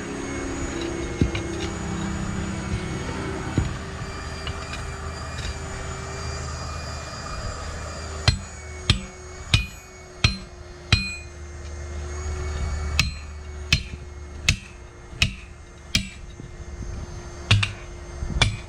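A hammer striking steel tire-changing tools: about a dozen sharp, ringing metal blows in two runs, starting about eight seconds in, roughly one every two-thirds of a second, as a truck tire bead is driven over the rim. Before the blows, a steady low rumble.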